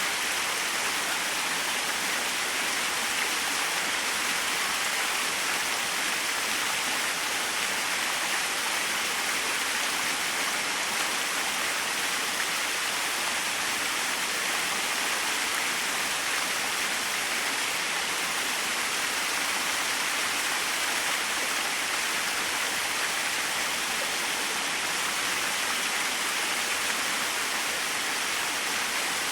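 Small waterfall splashing, a steady even rush of falling water.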